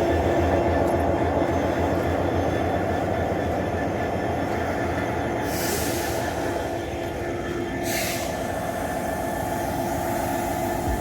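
Train running on the rails: a steady rumble with held tones over it, and two short hisses about six and eight seconds in.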